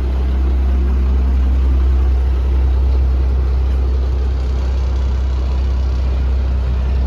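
Heavy diesel engine idling steadily, a constant low rumble.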